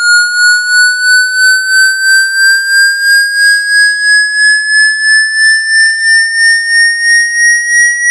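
Electronic water-eject test tone: one high pitch with overtones, climbing slowly and steadily as a frequency sweep, and pulsing in loudness about three or four times a second. It is played through the phone's speaker to vibrate water droplets out of the charging port and speaker.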